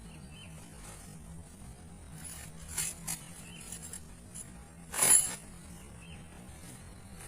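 Short clinks and scrapes of things being handled, twice near the middle and once louder about five seconds in, over a steady high hiss and low hum.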